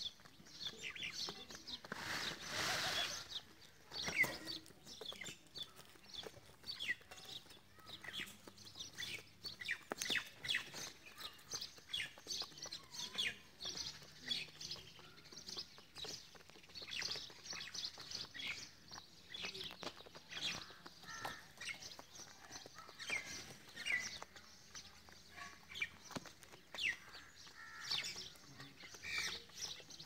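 Birds chirping: many short, high chirps come in quick succession throughout, with a brief burst of noise about two seconds in.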